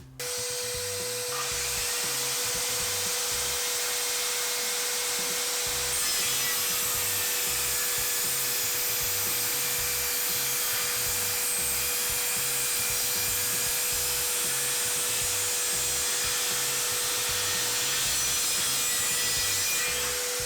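Circular saw cutting through wood, a steady motor whine under the noise of the blade in the timber, lasting about twenty seconds. It starts and stops abruptly.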